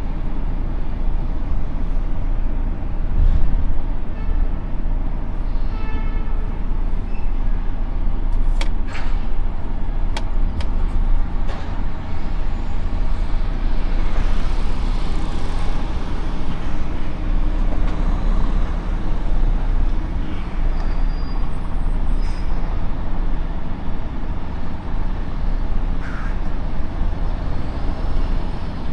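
Heavy truck's diesel engine and road rumble, steady throughout, with a few sharp clicks and knocks about a third of the way in.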